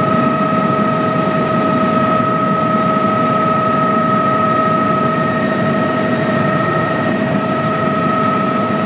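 Helicopter running steadily: a constant high whine over a dense low rumble.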